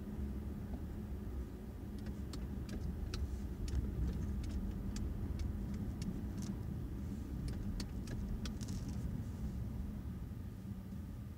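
Low steady rumble of a car on the move, with scattered sharp light clicks and jingles from about two seconds in until near the end.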